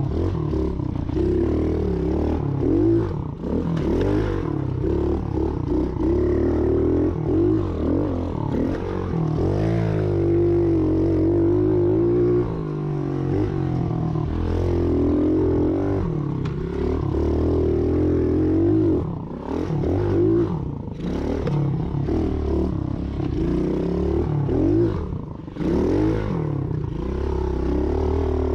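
Small Chinese pit bike engine being ridden around a dirt track, revving up and down with the throttle through the turns and jumps, with some rattling from the bike.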